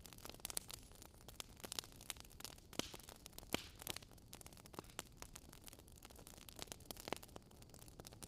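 Wood fire crackling: irregular small pops and snaps over a soft, steady hiss.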